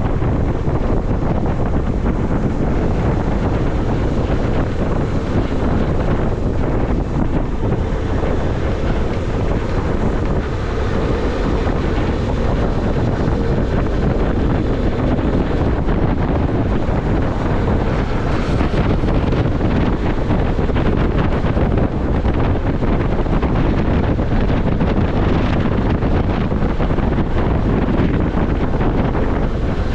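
Wind buffeting the microphone of a motorcycle being ridden: a loud, steady rush of noise.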